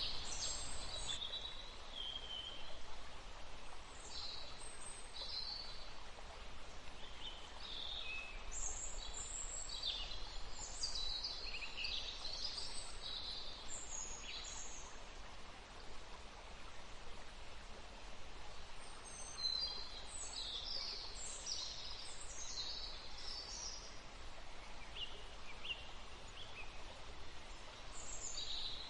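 Woodland stream running with a steady rush, while songbirds chirp and trill in scattered bursts, busiest about a third of the way in and again past the middle.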